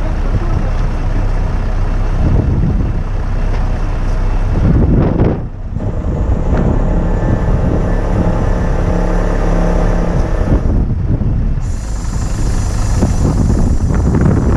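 Crane truck's diesel engine running steadily, with strong wind buffeting the microphone.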